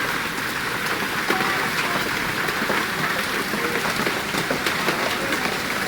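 Steady rain falling, with a continuous patter of drops striking surfaces.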